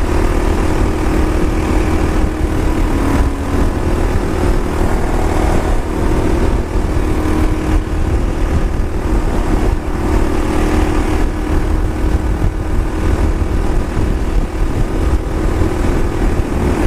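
Motorcycle engine running at a steady cruise, with heavy wind rumble on the microphone.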